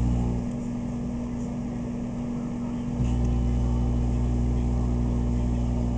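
Microwave oven running with a steady hum and a loud low electrical buzz that drops out about half a second in and returns about three seconds in, as the plasma inside comes and goes.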